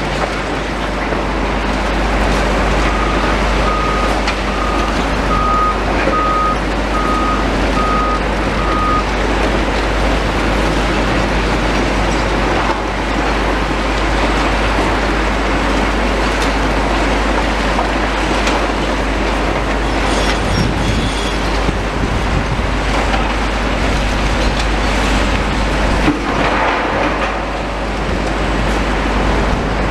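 Heavy demolition machinery running steadily with a deep engine rumble. A reversing alarm beeps about eight times, starting a few seconds in and stopping after about six seconds.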